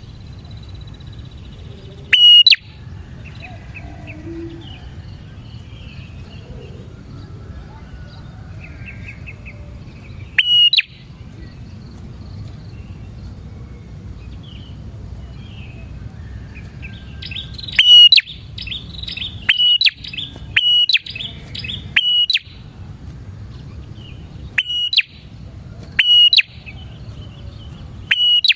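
Prenjak (prinia) calling: loud, sharp single call notes repeated at irregular gaps of one to eight seconds, coming closer together in the second half. A brief run of quick chattering notes comes about two-thirds of the way in, over a faint steady hiss.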